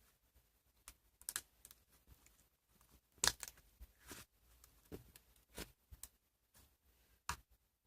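Slime being pressed and played with by hand, giving irregular small clicks and pops, the loudest about three seconds in.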